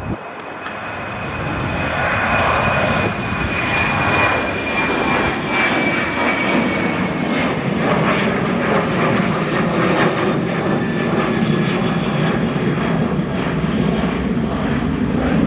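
Airliner's engines passing close by: the noise builds over the first couple of seconds into a loud, steady rush, with a high whine that slowly falls in pitch.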